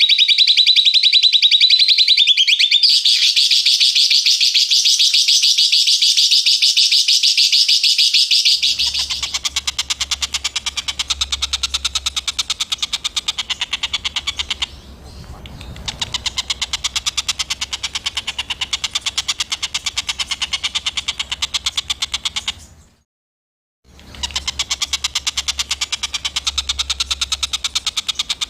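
Songbird giving harsh, rapid chattering calls, a fast unbroken run of high repeated notes. About nine seconds in, the recording changes and a low hum sits underneath the chatter. The chatter breaks off for about a second near the end.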